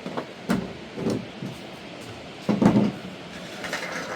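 A series of dull knocks and thumps, about five in all, the loudest and longest about two and a half seconds in.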